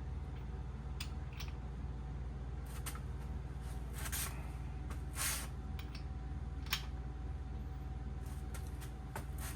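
Scattered light clicks and short rustles of tools and parts being handled, over a steady low hum.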